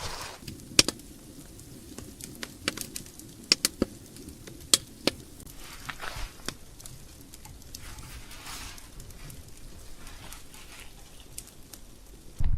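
Firewood crackling in a hot-tent wood stove: irregular sharp pops and clicks over a faint steady hiss.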